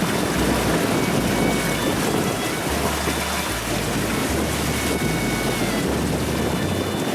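Strong wind rushing and buffeting across the microphone aboard a sailboat under sail, a loud steady roar of noise.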